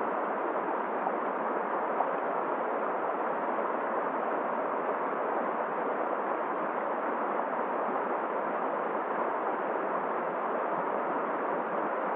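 Steady rushing noise of a cold river flowing, mixed with winter wind.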